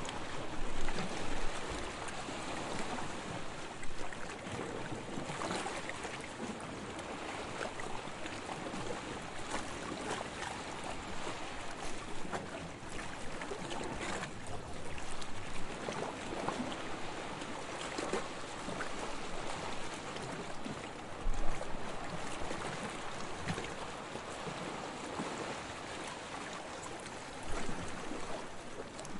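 Sea water lapping and splashing, with a few louder splashes scattered through.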